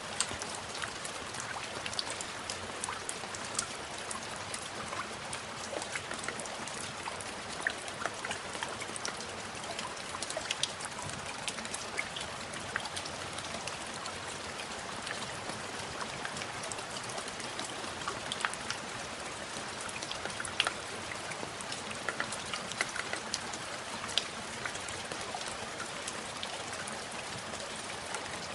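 Steady rain falling, an even hiss dotted with many sharp ticks of separate drops striking a surface.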